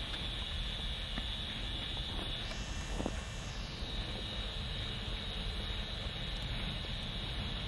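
Steady low rumble of a GR12W diesel locomotive hauling a hopper train, heard from a distance over a steady high-pitched insect drone.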